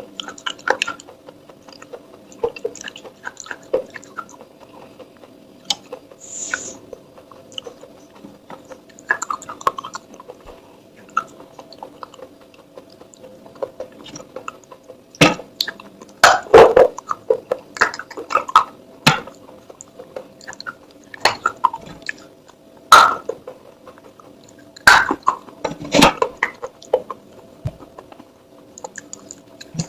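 Pieces of baked clay pot being bitten and chewed close to the microphone: irregular sharp crunches and cracks, louder and denser in the second half, over a faint steady hum.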